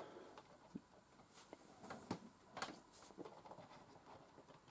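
Near silence with faint scattered taps and rustles of a paper instruction pamphlet being handled and folded back together.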